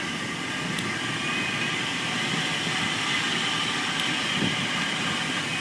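Vehicle engine idling steadily: the donor Jeep Cherokee running during a jump start of a dead truck battery.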